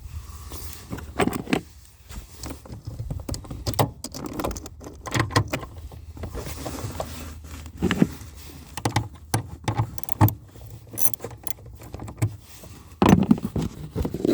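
Irregular clicks, knocks and rattles of hands handling a car's plastic taillight assembly, its wiring connector and hand tools, with a louder cluster of knocks near the end.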